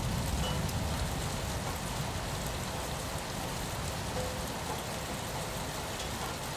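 Steady rain falling on a window pane, an even, unbroken hiss of drops.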